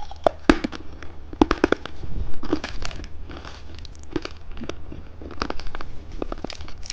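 Plastic wrapper of a caterpillar lollipop crinkling and tearing as it is opened, in many short sharp crackles.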